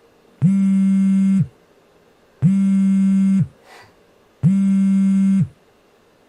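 Telephone buzzing in low, steady one-second tones that start every two seconds; three sound in full and a fourth starts near the end.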